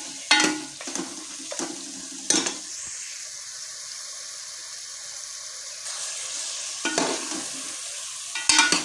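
Chicken frying in masala and ghee in a metal pressure-cooker pot, sizzling steadily, while a metal ladle stirs it, scraping and knocking against the pot a few times near the start and again near the end. This is the bhuna stage, with the ghee already separated from the masala.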